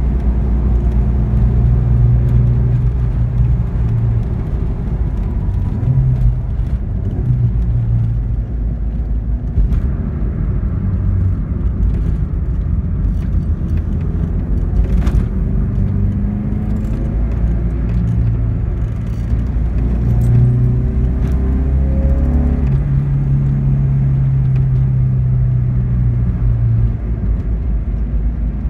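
Alfa Romeo 33 1.3's flat-four boxer engine and tyre rumble heard from inside the cabin while driving, the engine running on freshly fitted Bosch spark plugs. The engine note rises as the car accelerates, most clearly about twenty seconds in.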